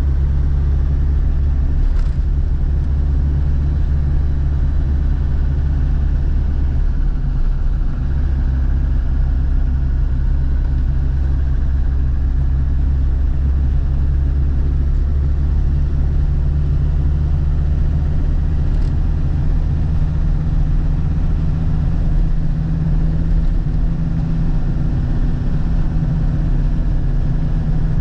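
1999 Land Rover Defender TD5's five-cylinder turbodiesel engine running as the vehicle is driven: a steady low drone whose pitch shifts about eight seconds in and again near the end.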